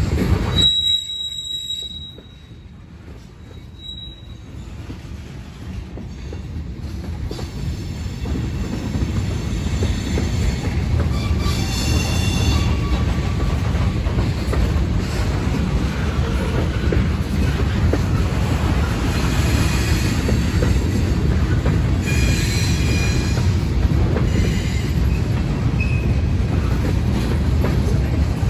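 Train wheels rolling on rails, a steady low rumble with high wheel squeal coming and going several times. The rumble drops away sharply about a second in, then builds back up over the next ten seconds.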